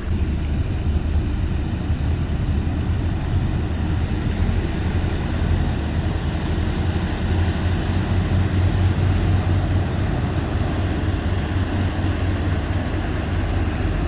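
Steady low rumble of a vehicle's engine and running noise, heavy in the bass, with no break or change in pitch.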